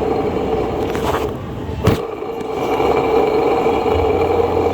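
1992 BMW 318i's A/C compressor pulley bearing spinning with a steady, rough running noise: the sign of a worn, damaged bearing. A single sharp knock sounds about two seconds in.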